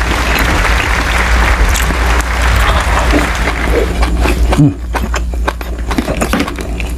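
Close-miked chewing of soft, saucy braised tuna roe: a dense wet crackle for the first few seconds, then separate mouth clicks and smacks, over a steady low hum.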